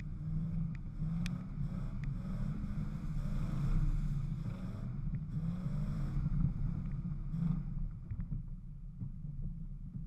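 Off-road 4x4's engine running under load as it drives over a dirt track, with a low drone that rises and falls with the throttle, wind on the hood-mounted microphone, and a few sharp knocks and rattles from the bodywork. The engine eases off about eight seconds in.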